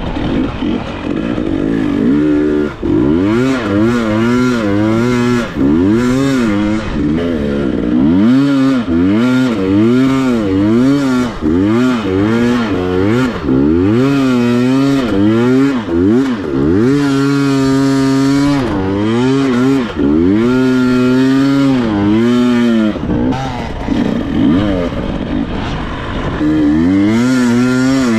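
KTM 300 two-stroke dirt bike engine being ridden hard, the revs rising and falling over and over as the throttle is worked on and off, now and then held steady for a moment.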